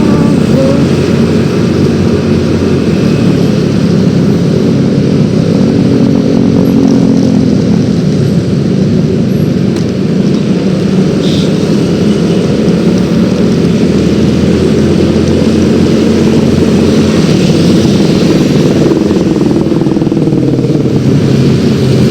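Yamaha X-Ride 113cc scooter's single-cylinder engine running while riding, its note drifting up and down with speed, over steady road and wind noise.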